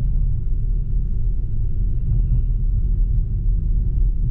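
Steady low road and tyre rumble heard inside the cabin of a BMW i4 M50 electric car while it is driving.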